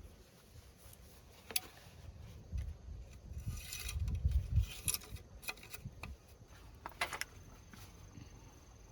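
Hand-work sounds: a few sharp clicks and knocks spread through, with a stretch of rubbing and scraping around the middle.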